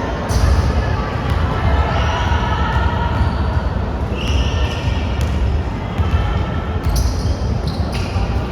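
Basketball bouncing on an indoor court during a game, sharp knocks over a steady low rumble, with short high squeaks about four seconds in and again near the end, and scattered voices in the hall.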